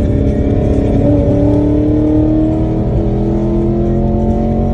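Car's V8 engine and loud exhaust pulling under acceleration, the pitch climbing steadily as the revs rise. By the owner's account it is running without a miss after new coil packs and spark plugs.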